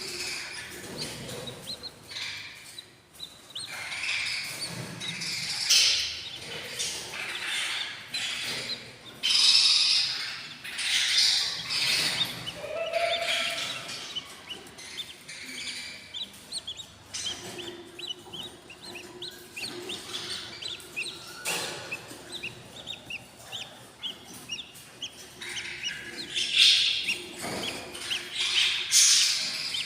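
Eight-day-old budgerigar chicks in a nest box, chirping and cheeping in irregular bursts: the begging calls of hungry chicks.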